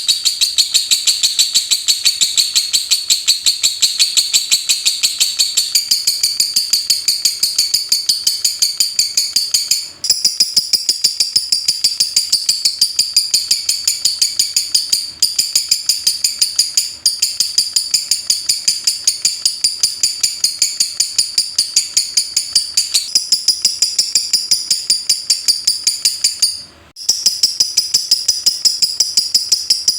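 Lovebird in a long, unbroken 'ngetik' chatter: rapid, evenly spaced, high-pitched chirps like typing, held for many seconds with only a few brief breaks.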